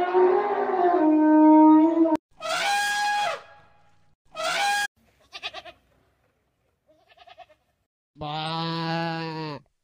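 Elephant trumpeting: a long call that ends about two seconds in, then two shorter trumpet blasts. Near the end a goat gives one long bleat.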